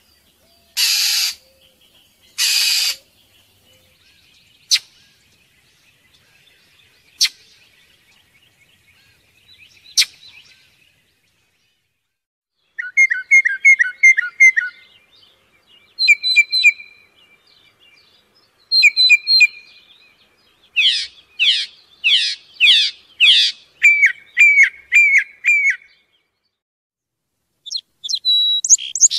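Recorded songbird song: two harsh, raspy calls near the start, then after a quiet stretch with a few sharp clicks, repeated phrases of rapid trilled notes, among them a quick run of downward-sweeping whistles.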